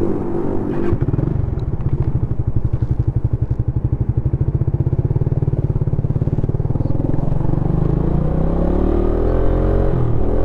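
Suzuki Satria FU FI's single-cylinder four-stroke engine and exhaust running with a fast, even pulse at low revs. About three-quarters of the way in it revs up in a rising note, dips briefly near the end, then rises again.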